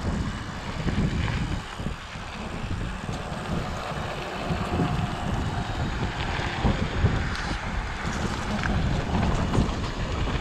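Wind buffeting the microphone of a camera carried on a mountain bike moving down a trail, a steady low rumble with a few short rattles from the bike.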